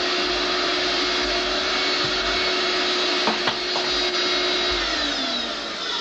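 Vacuum cleaner motor running steadily, then switched off near the end, its hum falling in pitch as the motor spins down. A couple of light knocks a little past the midpoint.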